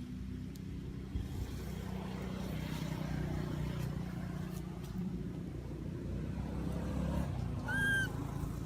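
A steady low rumble of a motor vehicle running nearby. Near the end comes one short, high, pitched squeal, typical of a young monkey's call.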